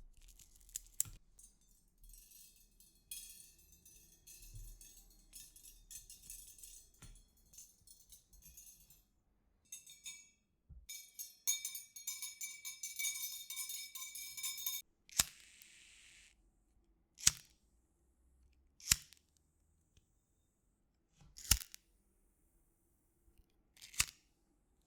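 Close-miked handling of packing materials: several seconds of crinkly scratching, a few seconds of squealing at a steady pitch, a short hiss, then four separate sharp snaps spaced a second or two apart.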